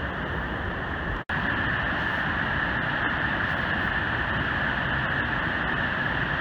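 Steady roar of the Great Falls of Paterson, a large waterfall on the Passaic River. It cuts out for an instant about a second in, then carries on slightly louder.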